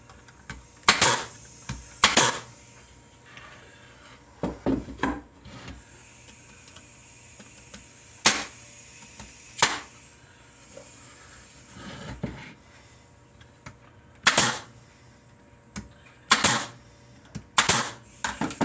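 Nails being driven one at a time into cedar picket boards: about a dozen sharp single shots spaced a second or more apart, a few in quick pairs.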